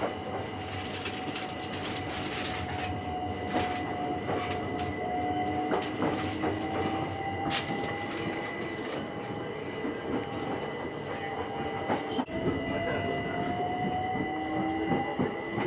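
Passenger train running along the track, heard from inside the carriage. A steady rumble carries frequent clicks from the wheels on the rails, and a faint whine rises in pitch twice.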